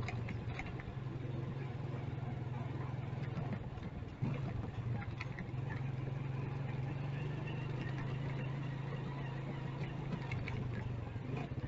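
Motorcycle engine running steadily with a low, even hum, with a brief thump about four seconds in.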